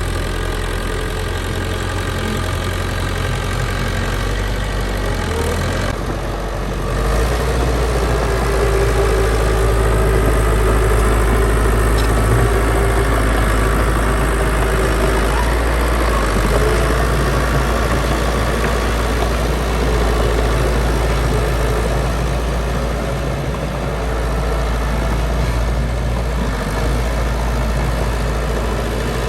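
Heavy diesel engine of earthmoving machinery running steadily with a deep rumble. It grows louder about seven seconds in and stays so, as the engine works harder.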